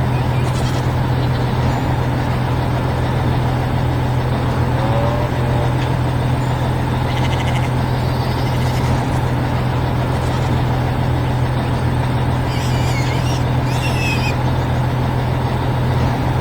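Large harvester's engine running steadily, a loud, even low drone. Brief high chirps come in about three seconds before the end.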